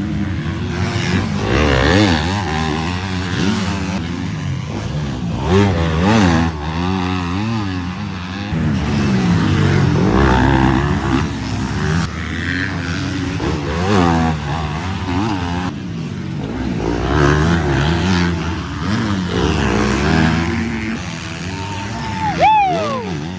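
250cc motocross bikes racing, their engines revving up and down through the gears as they accelerate and pass, several at once. Near the end one engine's pitch falls sharply as a bike goes by.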